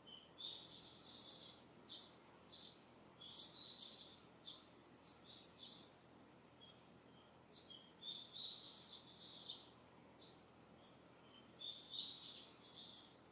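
Wild birds calling and singing in quick runs of short, high chirps, coming in several clusters with brief pauses between, over a faint steady hiss of breeze.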